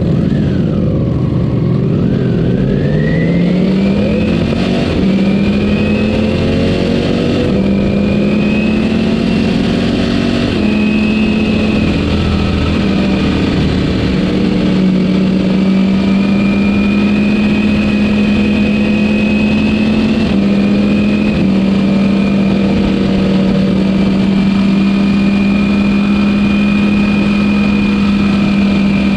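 Ducati Panigale V4 S engine on its stock exhaust, heard from a camera on the bike. It accelerates, rising in pitch over the first few seconds, then runs at a nearly steady speed with a few small shifts in pitch.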